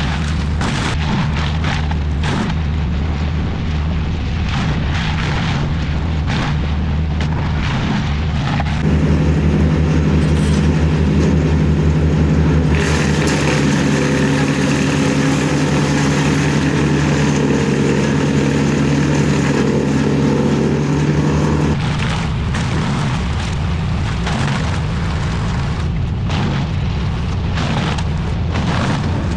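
Heavy machine engine running steadily, working harder and louder for about thirteen seconds in the middle, with frequent short knocks and cracks before and after.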